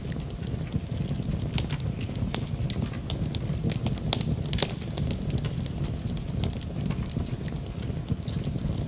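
Wood fire crackling in a fireplace: a steady low rumble of flames with frequent sharp pops and snaps from the burning logs, a few louder ones scattered through.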